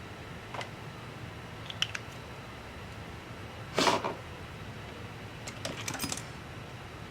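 Light clicks and taps of small parts and tools being handled during a laptop repair, with one louder, brief noisy sound about four seconds in and a quick cluster of clicks near the end, over a steady low hum.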